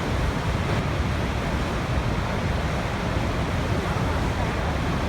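Waterfall: a steady, constant rush of falling water with no breaks.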